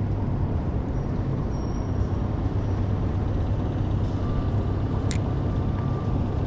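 A skiff's motor running with a steady low hum, with a brief sharp click about five seconds in.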